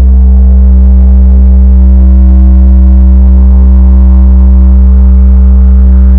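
Ambient meditation drone: a loud, deep, unchanging hum with several sustained higher tones held steadily above it.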